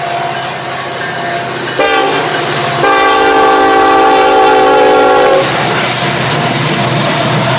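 Norfolk Southern diesel locomotive sounding its air horn: a short blast about two seconds in, then a long blast of about two and a half seconds, over the rumble of the locomotive's engine and the passing train.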